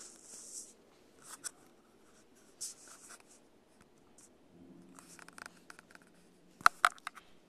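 Scattered rustling and scraping handling noises, then two sharp clicks close together near the end.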